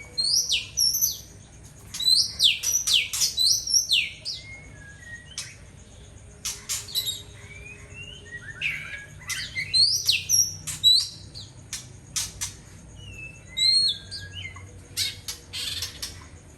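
Oriental magpie-robin singing: phrases of quick, sweeping whistled notes mixed with sharp clicking notes, broken by short pauses.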